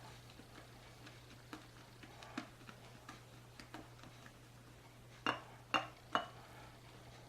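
Badger shaving brush whipping lather in a ceramic shave scuttle: faint swishing with light clicks, and three sharper taps against the scuttle a little after five seconds in.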